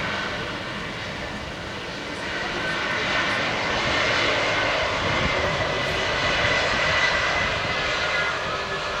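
Airplane engines running, a steady rushing noise with a high whine through it, growing louder a few seconds in.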